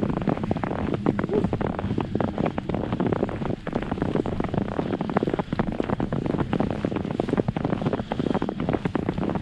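Wind buffeting the microphone: a steady rough noise with dense, irregular crackle throughout.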